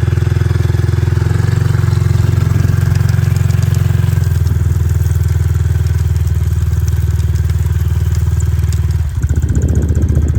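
Motorcycle engine running steadily under way. There is a brief drop in level about nine seconds in before it carries on.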